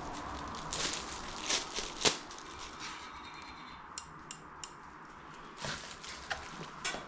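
Packaging and accessories being handled during an unboxing: scattered rustling of wrapping with sharp clicks and light knocks, one louder click about two seconds in and three quick clicks a little later.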